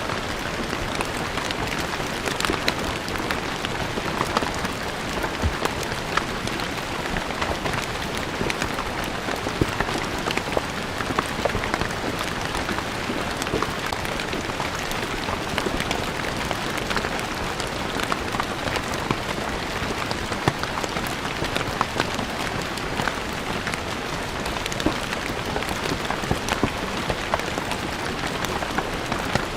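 Steady rain falling on a stone floor, a dense even patter of many individual drops striking hard stone.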